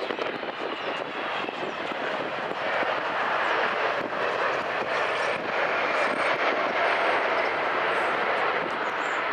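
Jet engines of a twin-engine Boeing airliner on landing approach: a steady rushing roar with a faint high whine, growing louder over the first few seconds as the plane comes closer, then easing slightly.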